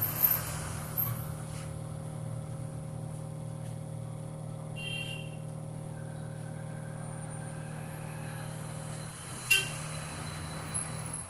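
Excavator diesel engine running at a steady speed. Its note shifts slightly about nine seconds in, and a sharp click comes just after.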